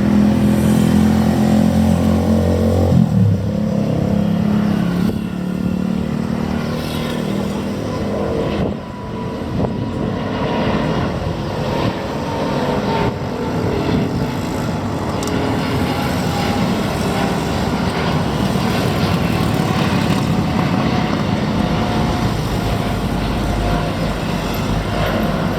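Airbus A350-900's Rolls-Royce Trent XWB jet engines giving a loud, continuous rumble as the airliner climbs away after takeoff. In the first three seconds a motor vehicle's engine hum sits on top and cuts off suddenly.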